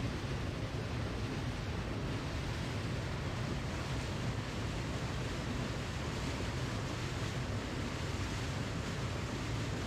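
Waterfall: water falling and rushing in a steady, unbroken roar of noise, heaviest in the low end, with no change in level.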